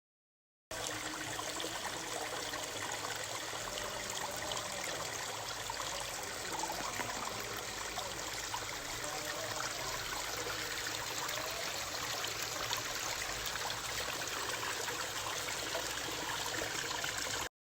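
Stream water running steadily over rocks in a valley bed. The sound cuts in abruptly and cuts out abruptly.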